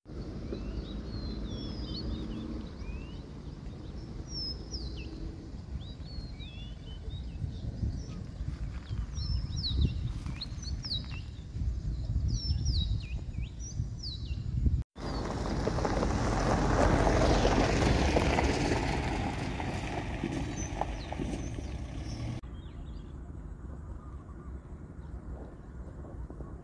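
Small birds chirping outdoors, many short quick calls falling in pitch, over a low steady rumble. After a cut about halfway through, a broad rushing noise swells for a few seconds and then fades.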